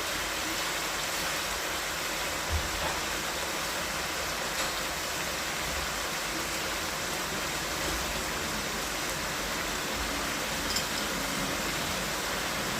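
Steady sizzling of chicken adobo cooking in a pan, an even hiss with a few faint knocks.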